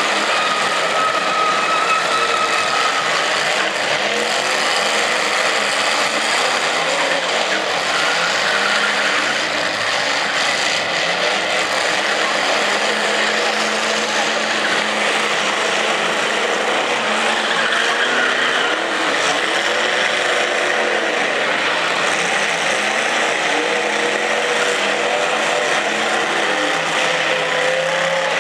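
Several demolition derby cars' engines running and revving together at the same time, loud and unbroken, with their pitch rising and falling as the drivers push and ram.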